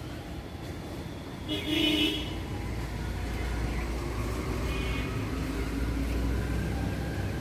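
A vehicle horn toots once, loud and short, about a second and a half in, and a fainter toot follows near five seconds, over a low, steady rumble of street traffic.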